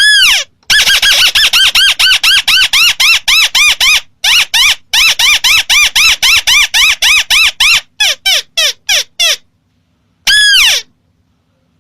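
Recorded crake lure call: rapid runs of sharp, arched calls at about seven a second, broken by short pauses. The notes slow down near the end and finish with a single call.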